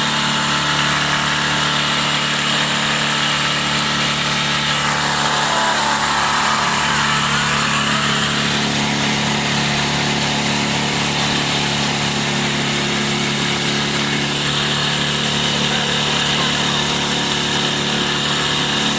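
Boat engine running steadily at an even pitch, a constant mechanical hum with a hiss over it.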